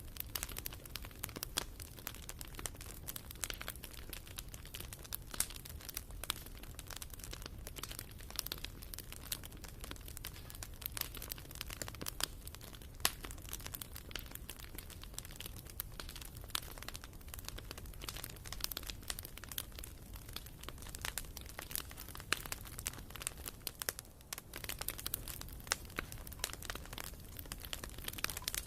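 Wood fire burning in a fireplace: firewood crackling with irregular sharp pops, several a second, some louder than the rest, over a low steady background.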